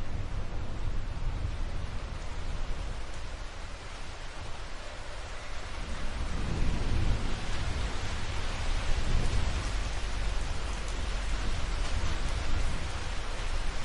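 Rain falling steadily with a low rumble of thunder underneath; the rumble swells about halfway through and the rain's hiss grows heavier in the second half.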